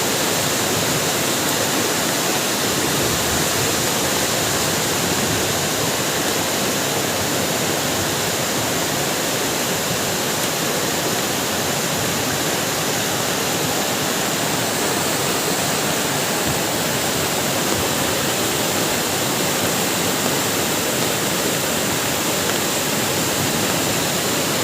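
Heavy rain pouring steadily, a dense even hiss of water with no let-up.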